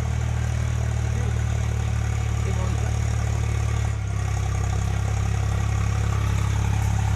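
Tractor engine running steadily. About four seconds in its note shifts slightly and it grows a little louder.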